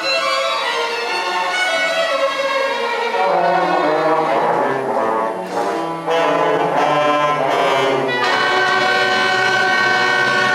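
Upper primary school concert band playing a piece, with a short dip in loudness about six seconds in, then sustained chords.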